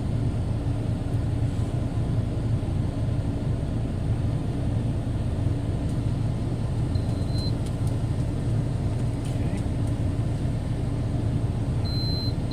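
Steady low rumble of the idling truck's engine, with two short high electronic beeps, one about seven seconds in and one near the end, from the blood glucose meter as it takes the dog's reading.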